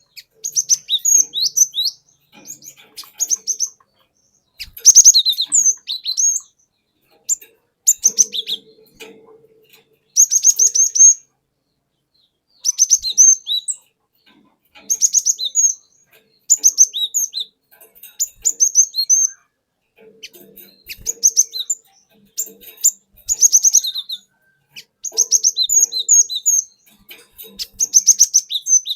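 Cinereous tit (glatik batu) singing in short phrases of rapid, high repeated notes, each phrase about a second long, with brief pauses between.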